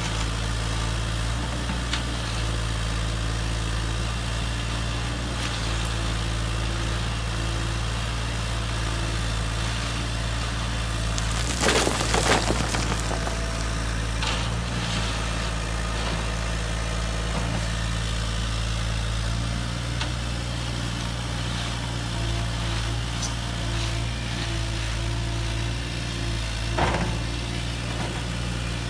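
Steady low mechanical hum of a radio-controlled excavator and dump truck at work. About twelve seconds in there is a brief, louder noisy burst, and a single knock comes near the end.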